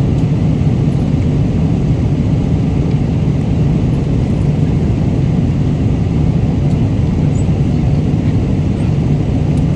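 Steady low rumble of an airliner cabin in flight, engine and airflow noise holding an even level throughout.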